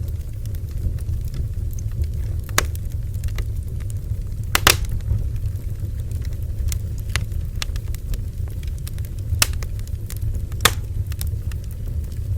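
Bonfire burning: a steady low rumble of the flames with scattered sharp wood crackles and pops, the loudest about two and a half, four and a half, nine and a half and ten and a half seconds in.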